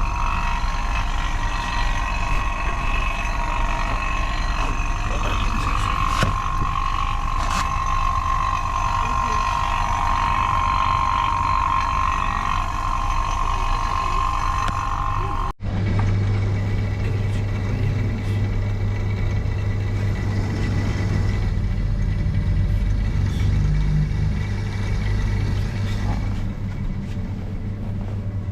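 Steady running of mains-powered repair equipment. There is a steady whine through the first half, then an abrupt cut about halfway, after which a deep, steady electric-motor hum dominates.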